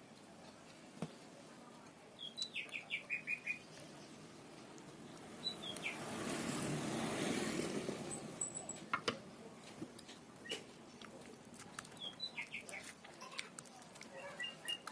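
A bird chirping in short runs of quick notes that fall in pitch, about four times. A rushing noise swells and fades in the middle, and light clicks and taps are scattered through.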